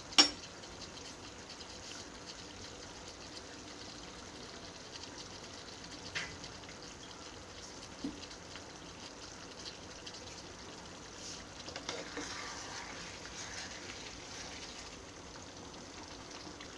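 Curry gravy with paneer cubes sizzling gently in a frying pan as a steady low hiss, with a single sharp clink just after the start and a short stretch of louder crackling about twelve seconds in.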